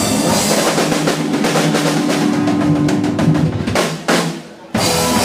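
Rock band's song with a rapid drum roll on the snare and kit over a held chord, building to the song's ending. The music drops away briefly about four seconds in, then comes back in full.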